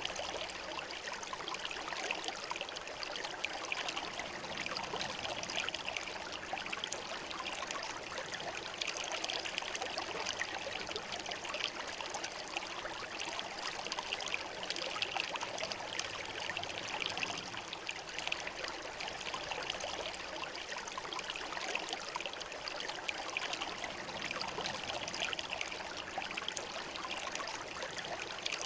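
Shallow clear river running over smooth stones: a steady babble of water with small splashes and trickles.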